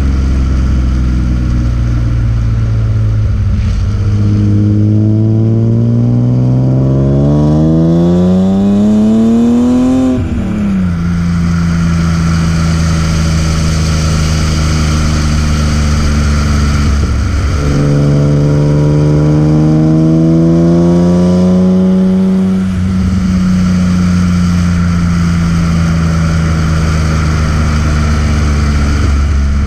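BMW E36 M3's S50B30 straight-six engine under way. It revs up steadily for several seconds, drops sharply about ten seconds in as it shifts, and holds a steady pitch. It dips briefly around seventeen seconds, climbs again and then eases off slowly.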